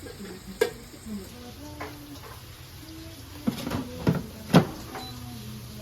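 Several sharp knocks of kitchen handling, one early and then three close together, the last the loudest, with faint voices underneath.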